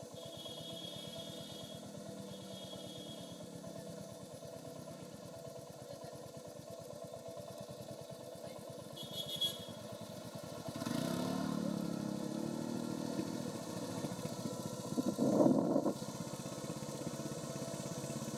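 Royal Enfield Hunter 350's single-cylinder engine on its stock exhaust, running steadily under the rider while on the move. It grows louder about eleven seconds in. A short high beep comes near nine and a half seconds, and a brief loud burst near fifteen seconds is the loudest moment.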